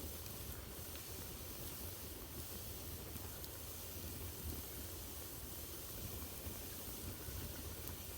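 Wood fire burning in a fireplace: a steady low rumble and hiss with a few faint crackles.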